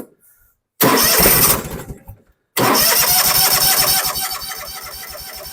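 Electric starter cranking a Kawasaki V-twin engine on a John Deere zero-turn mower: a click, a short crank about a second in, then a longer steady crank from about two and a half seconds in, with an even chug of compression strokes. The cranking drives the new pulse-type fuel pump, which is testing whether the pump now pushes fuel.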